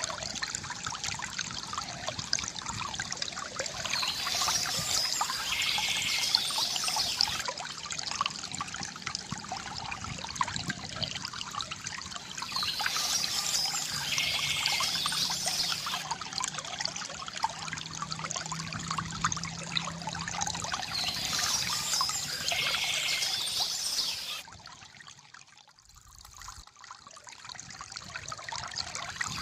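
Small stream trickling and splashing over stones, a steady water sound, with short bursts of bird song about every nine seconds. The water drops away briefly about 25 seconds in, then comes back.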